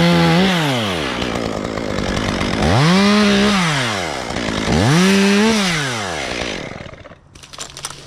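Gas chainsaw revved to full throttle three times, each time climbing in pitch, holding briefly at high speed and falling back. It quiets near the end.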